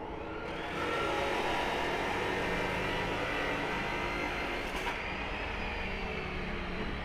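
A power tool on metal: a rising whine as it spins up, then steady, loud grinding noise.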